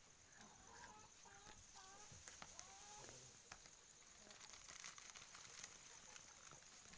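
Hens clucking faintly, a run of short calls in the first three seconds, followed by a few scattered light ticks.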